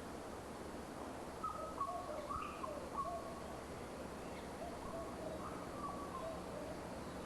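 Bird calls: a run of short whistled notes, faint over a steady background hiss of outdoor ambience, fading out about six seconds in.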